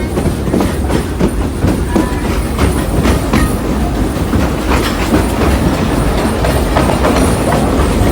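Narrow-gauge steam train's passenger car rolling along the track: a steady low rumble with the irregular clack and rattle of the wheels and car.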